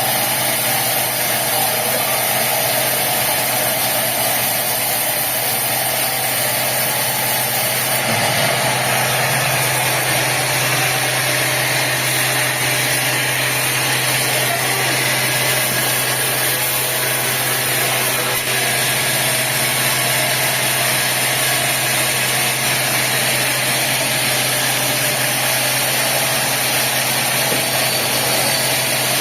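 Sawmill machinery running steadily: an engine-like drone with a constant low hum under a dense hiss, the high hiss growing a little louder about eight seconds in.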